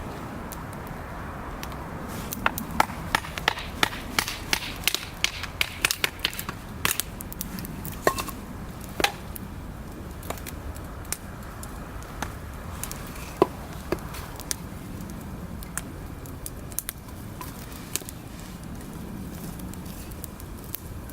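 Wood fire crackling and popping: a quick run of sharp pops in the first third, then scattered single pops over a steady low hiss of burning.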